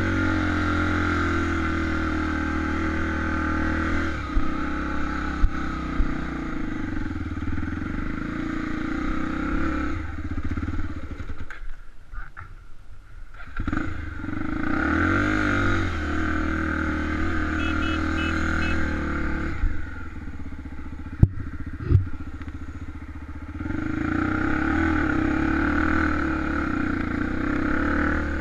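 Honda XR250 Tornado single-cylinder four-stroke engine running under way on a trail ride, its pitch rising and falling with the throttle. The engine note drops off briefly about halfway through. A few sharp knocks stand out near the start and again about two-thirds of the way in.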